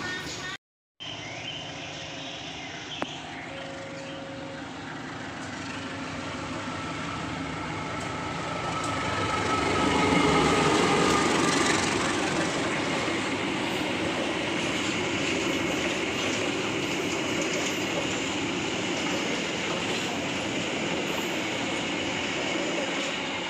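A train rolling past at close range, the rumble of its wheels on the rails swelling to its loudest about ten seconds in and then holding steady as the cars go by. A brief gap of silence just under a second in.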